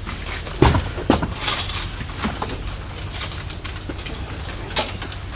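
Several sharp knocks and clatters of things being handled, the loudest a heavy thump about half a second in and another knock near the end, over a steady low hum.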